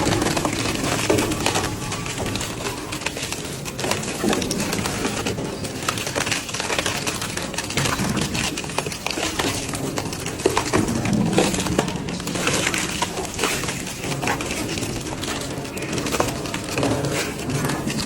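Industrial metal shredder tearing through scrap metal: continuous grinding and crunching with frequent sharp cracks and drawn-out metallic groans.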